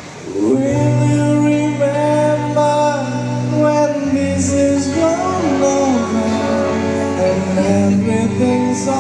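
Live pop band playing with a singer holding long, gently bending notes over guitar and bass. The music comes in loudly about half a second in after a brief dip.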